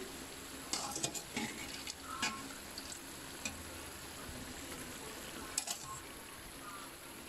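Duck pieces sizzling as they fry in an oiled wok: a steady hiss with a few short sharp clicks scattered through, a small cluster about a second in and another near six seconds.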